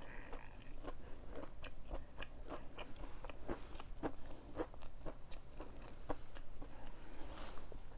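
Close-up chewing of a crispy, breaded plant-based fried chicken nugget: a run of small crunches, about two or three a second, as the fried crust breaks between the teeth.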